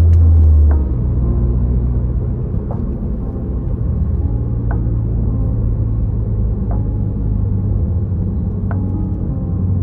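Low, steady rumble of a 2007 Toyota Corolla Altis heard from inside the cabin while driving, easing a little under a second in. A faint short tick sounds about every two seconds.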